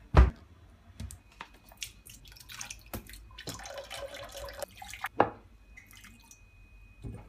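Water dripping and splashing in a small, echoing room, with scattered clicks and clatter. A loud knock comes just after the start and another about five seconds in.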